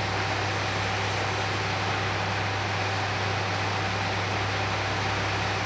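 Steady hiss with a constant low hum and a faint high whine, unchanging throughout.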